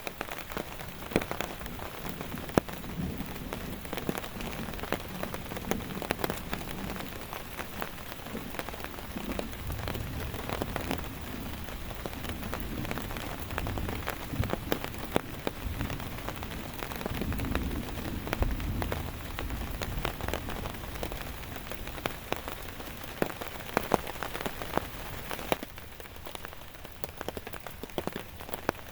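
Steady rain falling, with many sharp drops striking close by. A low rumble swells in the middle and then fades away.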